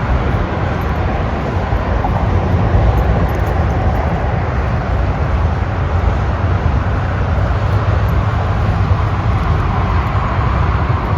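Steady road and engine noise inside a moving car, a low, even rumble with no distinct events.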